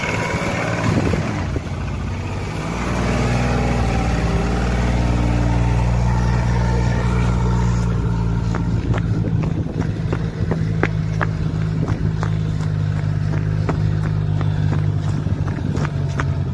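Car engine revving up about three seconds in, then held at steady high revs. Scattered sharp clicks are heard through the second half.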